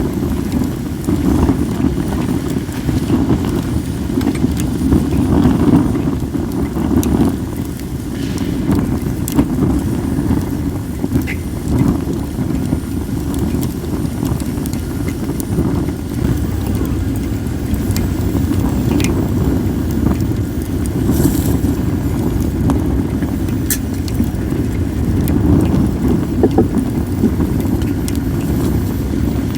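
Wood fire of acacia and mixed firewood burning, with sharp crackles and pops every few seconds, over a steady low rumble of wind on the microphone.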